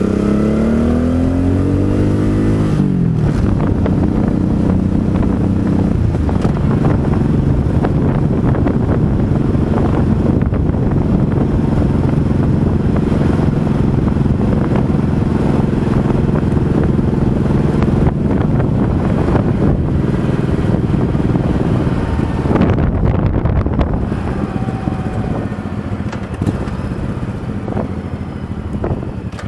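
Motorcycle engine accelerating with rising pitch, dropping as it shifts up a gear about three seconds in, then running steadily at cruising speed with wind rushing past. The engine eases off and quietens near the end.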